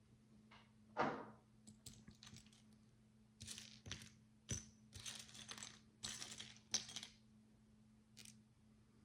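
Miniature plastic micro bricks being handled: a knock about a second in, then a run of short rattles and rustles with sharp clicks as small pieces are sorted and picked over. A faint steady hum runs underneath.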